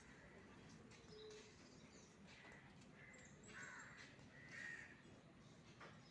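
Near silence, with about four faint, short bird calls in the middle seconds.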